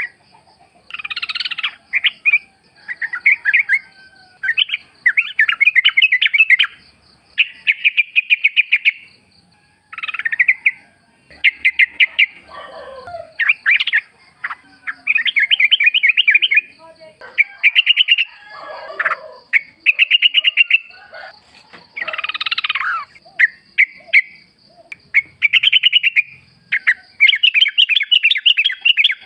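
Trucukan (yellow-vented bulbul) song: short, bubbly, chattering phrases of about a second each, repeated over and over with brief pauses. A fainter, rapid, high ticking runs steadily behind it.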